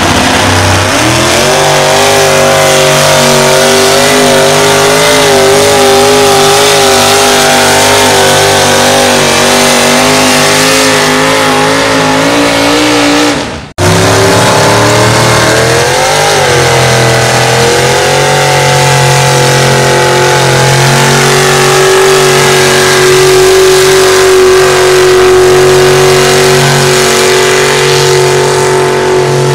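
Competition pulling vehicle's engine running loud at high revs, its pitch wavering up and down. The sound cuts off abruptly about fourteen seconds in, comes straight back, rises in pitch and then holds steady.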